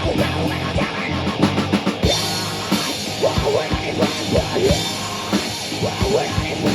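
Live rock band playing loud, with the drum kit to the fore: a quick run of drum hits leads into a wash of cymbals about two seconds in, and the beat carries on.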